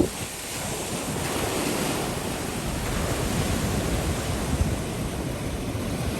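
Gulf surf washing onto the beach in a steady, swelling hiss, with wind buffeting the microphone.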